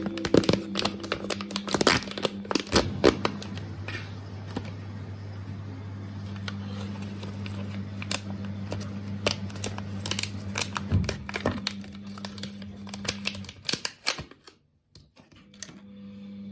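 Small clicks, taps and crinkling of things being handled, over a low steady hum; near the end everything drops to near silence for about a second.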